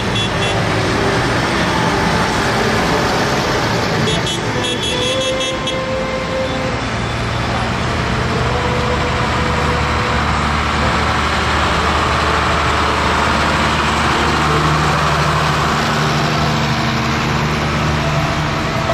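Tractor engines running steadily as tractors drive by, a continuous low engine drone.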